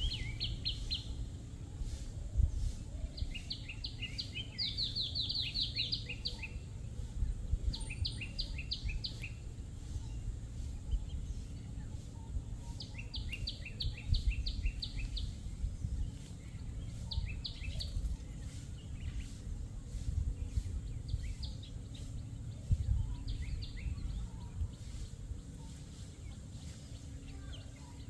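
High bird chirps in quick runs of about eight to ten notes, the runs recurring every few seconds, over a steady low rumble of outdoor noise.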